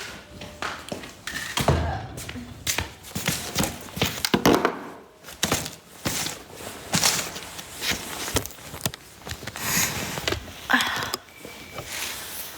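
Irregular knocks, thuds and rustling: handling noise from objects being moved about.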